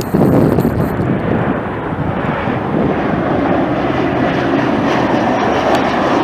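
Jet airliner's engines running loud and steady as the aircraft passes close by.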